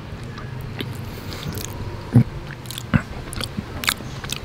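A person chewing soft, overripe durian flesh close to the microphone: scattered wet mouth clicks and smacks, with two louder low knocks a little after two and three seconds in.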